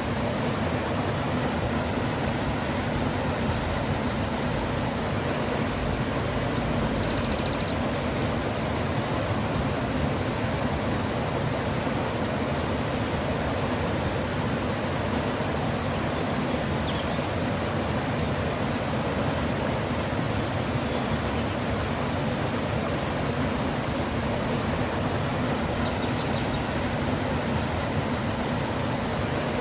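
Mountain river rushing in a steady, unbroken wash of water noise. Over it an insect chirps high and evenly, about two chirps a second, stopping for a few seconds twice.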